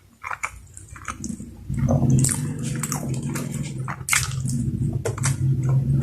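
Close-up eating sounds: wet mouth clicks and chewing. From a bit under two seconds in, a loud, low, steady hum-like drone sets in under the continuing mouth clicks.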